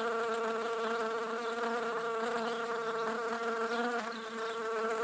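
Bee buzzing in a steady, even drone that holds one pitch throughout.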